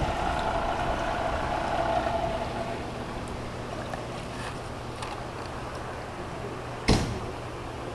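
A vehicle engine running with a steady hum, its higher tone fading out about two seconds in, and a single sharp knock near the end.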